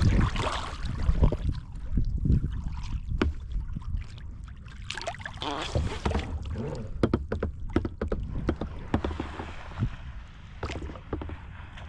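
Kayak riding through waves: irregular splashes and sloshing of water against the hull and paddle over a steady low rumble, busier and louder in the first few seconds, then easing.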